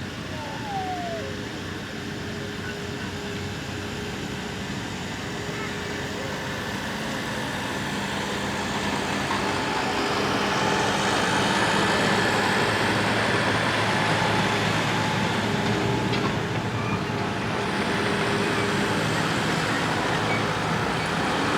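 A motor vehicle engine running steadily, growing louder about ten seconds in and then holding.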